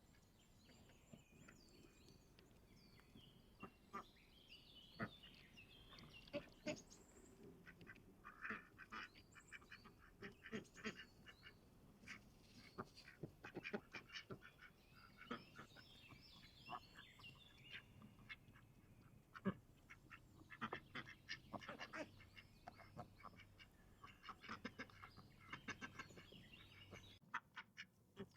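Faint bird calls, quacking mixed with high chirping, with many short, sharp clicks scattered throughout.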